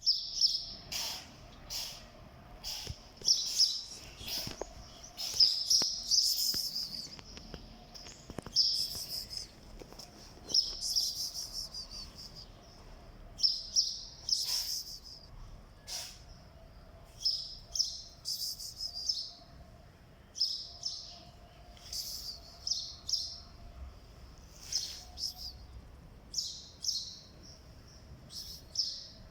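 Small birds chirping in short, irregular, repeated bursts, with a few sharp clicks between them.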